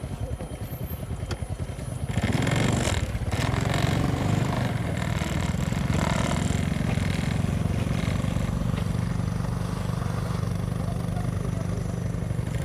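Motorcycle engine running at low speed, with a louder rush of noise for about a second and a half starting about two seconds in.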